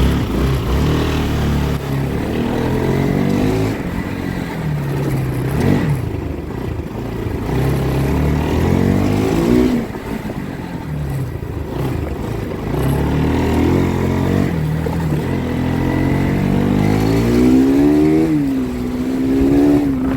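Motorcycle engine under way, revs repeatedly climbing and dropping as it accelerates through the gears, with a long rising rev near the end.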